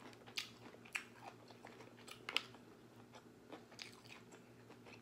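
Faint wet mouth clicks and smacks of someone chewing soft king crab meat, with a sharper click about two and a half seconds in.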